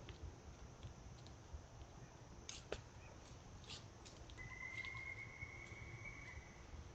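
Faint outdoor ambience with a low rumble and scattered small clicks, one sharper click a little before the middle, and a single steady high whistle held for about two seconds in the second half.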